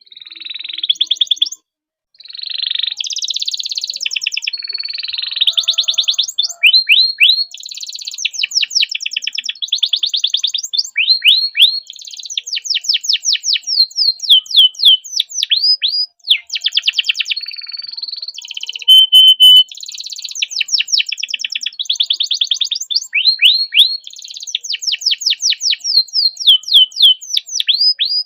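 Domestic canary singing a long song of rapid trills, rolls of quickly repeated notes at changing speeds. It breaks off briefly about two seconds in and again about sixteen seconds in.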